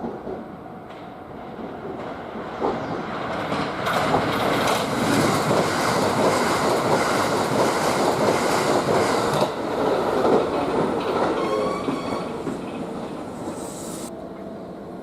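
Kintetsu limited express electric train running past close by the platform. Its noise builds over a couple of seconds, stays loud for about six seconds, then fades, with a brief whine near the end.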